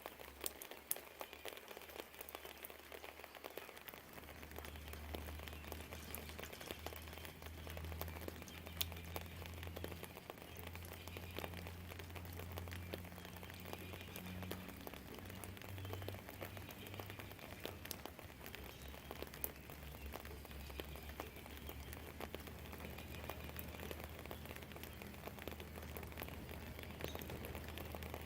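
Rain falling steadily, with single drops tapping close by, and a low rumble that sets in about four seconds in and keeps going.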